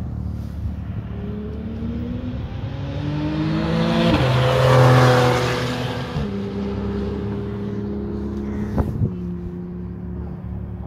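A car on the race track accelerating past: its engine note climbs in pitch as it approaches, is loudest about four to five seconds in where the pitch drops sharply as it goes by, then runs on at a steadier pitch as it draws away.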